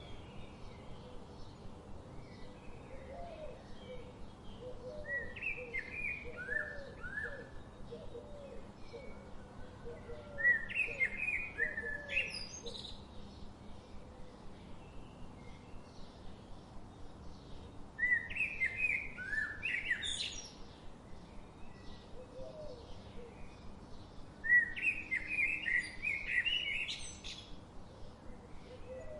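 Birds singing and chirping: four loud phrases of quick chirps, each ending in a sharp rising whistle, come every six to eight seconds. A run of softer, lower repeated notes sounds through the first half.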